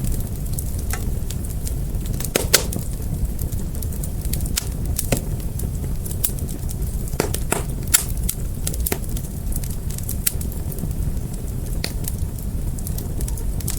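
Wood fire burning: irregular sharp crackles and pops over a steady low rumble of the flames, with louder pops about two and a half seconds in and about eight seconds in.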